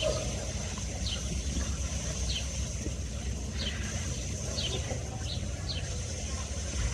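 Diesel car engine running, a steady low rumble, while a bird gives short falling chirps about once a second.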